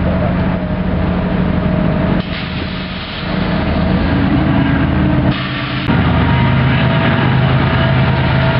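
Diesel locomotives of a loaded BNSF coal train passing, with a steady low engine drone. The sound shifts abruptly about two seconds in and again about five and a half seconds in.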